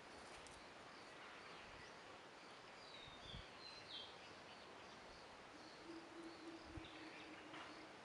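Faint outdoor ambience with a few short, high bird chirps about three to four seconds in; a low steady hum comes in for the last two seconds or so.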